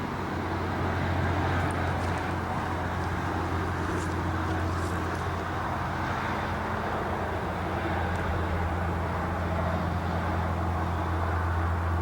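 Steady drone of a car's engine with tyre and road noise, heard from inside the moving car.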